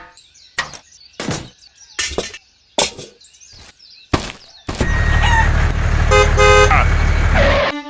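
A series of sharp knocks about a second apart, then a vehicle engine running loudly with a short horn toot in the middle of it.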